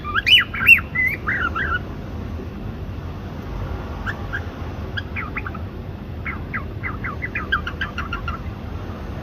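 Cockatiel calling: a burst of quick rising-and-falling whistled chirps in the first couple of seconds, a quieter pause, then a run of rapid short chirps from about five seconds in.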